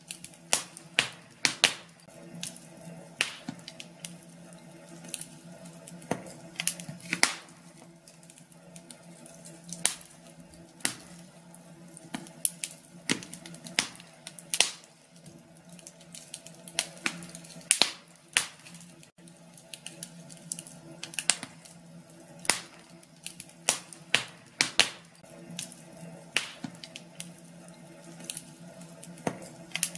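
Wood fire crackling in a fireplace: irregular sharp pops and snaps, some loud, over a low steady hiss and hum.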